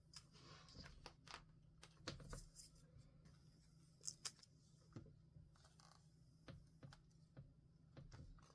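Faint stationery handling on a journal page: scattered light taps and clicks, with short stretches of paper rustling.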